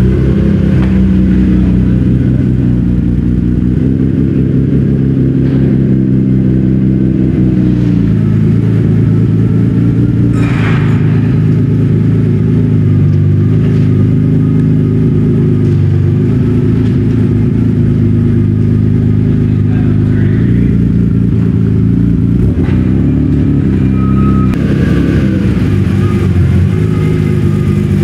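Nissan Skyline engine running at low speed as the car creeps along, a steady low drone whose pitch shifts slightly now and then. One short sharp sound about ten seconds in.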